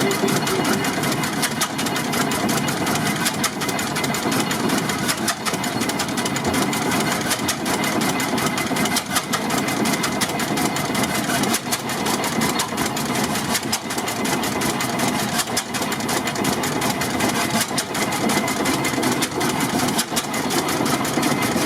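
1927 Eagle 40 HP tractor engine running steadily, a rapid, even train of exhaust beats.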